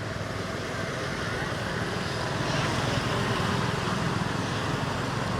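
Steady outdoor background noise with a low rumble and hiss, like distant road traffic, with no single distinct event.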